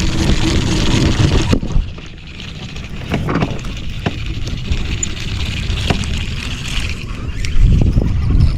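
Wind rumbling on the microphone over a steady hiss, with a few light knocks.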